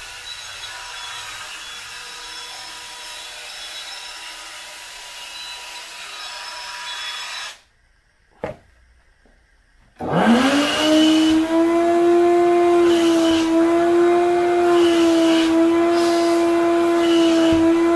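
Wet vacuum cleaner motor running steadily, then cutting off, followed by a single click. About two seconds later it starts again, its whine rising quickly as it spins up, then holding louder and steady.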